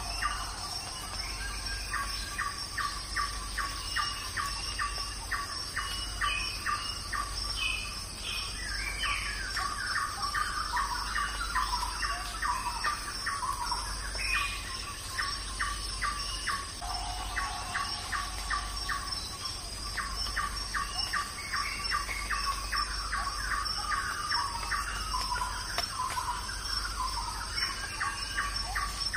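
Outdoor ambience of a bird chirping rapidly and repeatedly, a few short chirps a second in long runs with some sliding calls in between, over a steady high-pitched insect drone.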